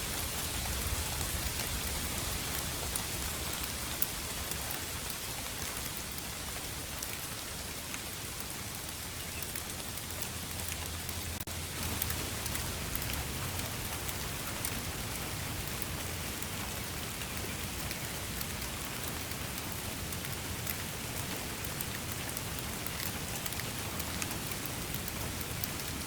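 Steady rain falling, with many fine drop ticks over an even hiss and a low rumble underneath.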